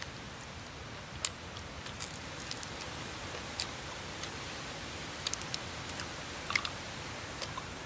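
Close-up chewing and biting of roasted chicken, with sharp crunchy crackles scattered through, the loudest about a second in.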